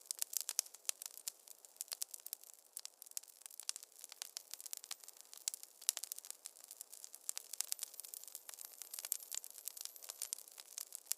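Wood fire in a fireplace crackling: many irregular sharp pops and snaps, several a second, over a faint hiss, with no low roar.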